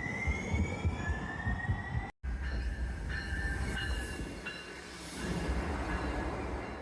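A train running on track, with a rumble underneath and thin high squealing tones that slowly rise in pitch. The sound cuts out abruptly for a moment about two seconds in, then carries on.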